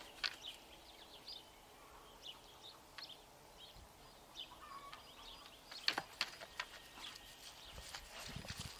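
Faint ambient noise with scattered small bird chirps, and a couple of sharp clicks about six seconds in.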